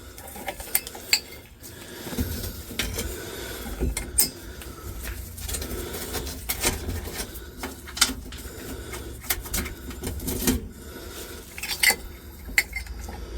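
Small metal screws clinking and tapping as they are pulled and gathered by hand: irregular sharp clicks scattered throughout, over a low steady background hum.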